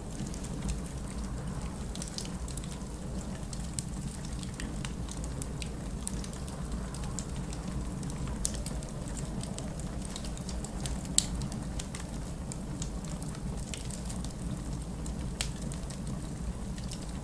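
Wood fire in a fireplace crackling, with scattered sharp pops over a steady low rumble. The loudest pop comes about eleven seconds in.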